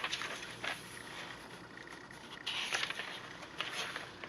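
Paper rustling as handmade journal pages and paper inserts are handled and turned: a few short rustles, the longest a little past halfway.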